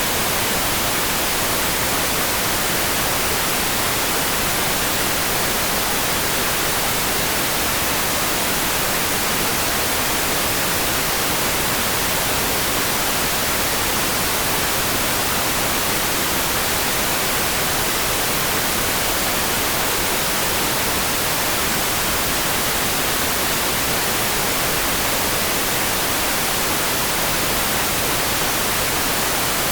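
Steady rain: an even, unbroken hiss with no separate drops, thunder or other events standing out.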